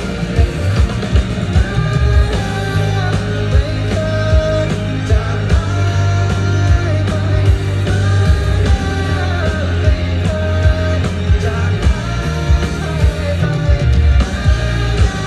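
Rock band music: drums keeping a steady beat under guitar and a held, sung melody.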